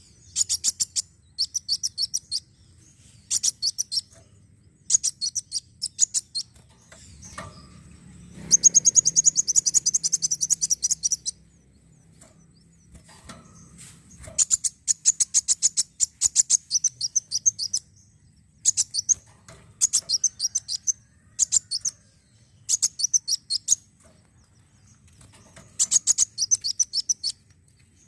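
A sunbird (Indonesian 'kolibri wulung') singing in short, rapid trills of high, sharp chirps, each burst lasting about a second and repeated after brief pauses. About eight seconds in comes a longer, louder run lasting about three seconds. This is a lure recording used to stimulate other birds to sing.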